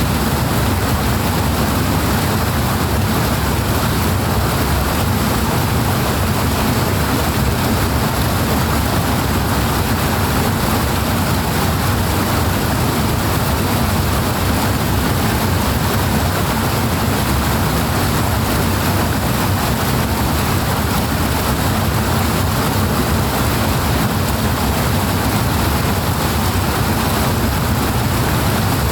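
Powerful water rushing steadily, an even unbroken rush heavy in the low end.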